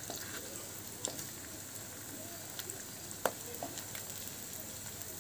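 Semolina-and-milk fritters sizzling steadily as they shallow-fry in hot oil in a non-stick pan. A few short clicks of a spatula sound as the fritters are turned over, the sharpest about three seconds in.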